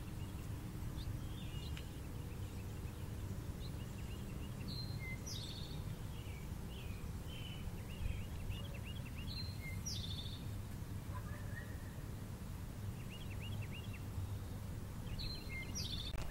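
Small songbird chirping: short high calls and quick runs of notes every few seconds, over a steady low outdoor rumble.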